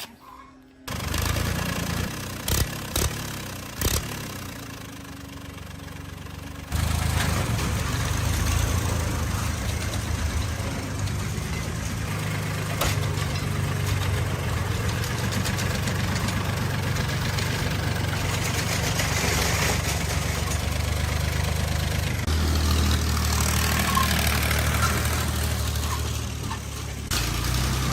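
Engine running steadily at idle, with a few sharp knocks in the first seconds. It gets suddenly louder about seven seconds in.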